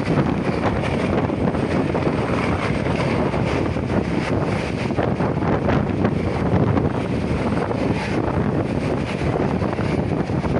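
Helicopter rotor and turbine running close by as it comes in to land, a steady dense noise.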